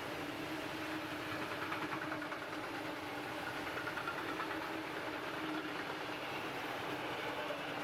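Train rolling past on the line: a steady rumble and rattle of wheels on the rails over a steady low hum, unchanging throughout.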